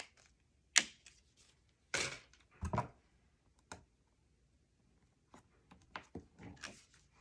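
Sharp clicks and taps of small craft magnets and paper being handled and pressed into place on an album page: one loud click about a second in, a few more around two to three seconds, and softer taps near the end.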